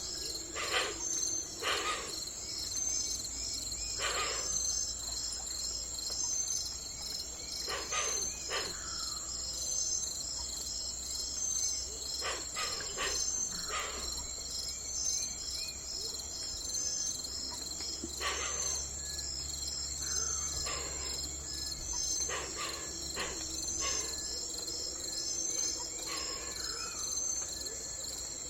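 Insect chorus: a steady, rapidly pulsing high trill. Short calls break in every few seconds, some trailing off in a falling glide.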